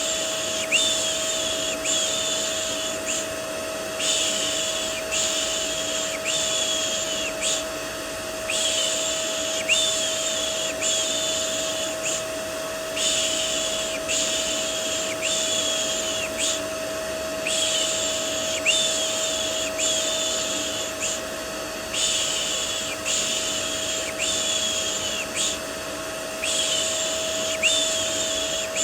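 Rhythmic 'shh' shushing, repeated stroke after stroke with a short pause every four or five seconds, over the steady whine and hiss of a running vacuum cleaner used as white noise to soothe a baby.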